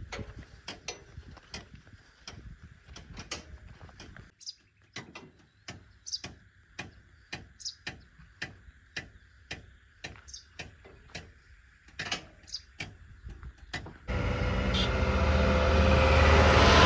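Faint, irregular clicks and ticks, then about three-quarters of the way through a loud diesel machine engine cuts in suddenly, running and growing louder.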